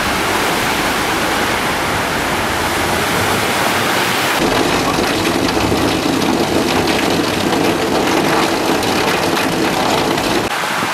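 Vehicles driving through a flooded street, engines running and tyres pushing through standing water. About four seconds in it changes abruptly to steady rain falling and splashing on wet pavement.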